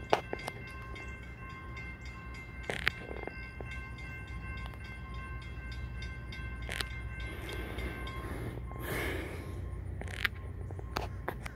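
Low steady rumble typical of a freight train approaching from a distance, with faint steady high tones over it, a few sharp clicks, and a brief rushing noise about eight seconds in.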